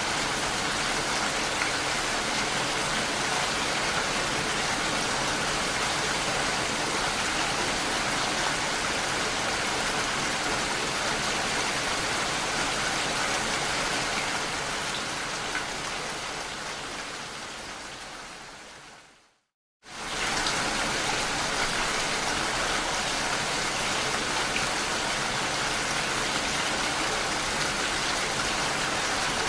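Steady heavy rain, an even hiss with no distinct drops standing out. About two-thirds of the way through it fades away over a few seconds into a moment of silence, then starts again suddenly at full strength, as at the join of a looped recording.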